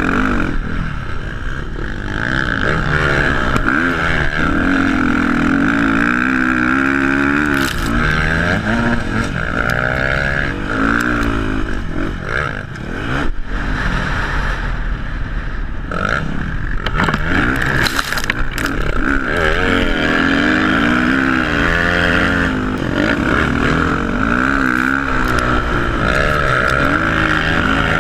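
Off-road motorcycle engines running and revving, their pitch rising and falling again and again, with scattered clicks and knocks.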